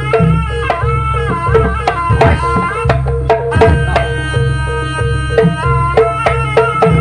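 Jaranan ensemble music: a sustained wind melody that bends up and down in pitch, over quick hand-drum strokes and a steady low tone.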